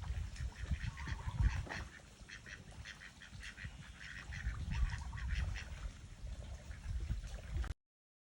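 Birds calling over and over in short, rapid calls, over a low rumble; the sound cuts off abruptly near the end.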